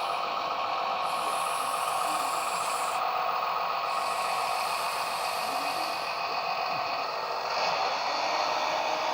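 A 1/14-scale Lesu PC30 RC hydraulic excavator running: the steady whine of its hydraulic pump mixes with the engine sound from its onboard sound module through small speakers. The sound gets a little louder about three quarters of the way through, as the machine is worked.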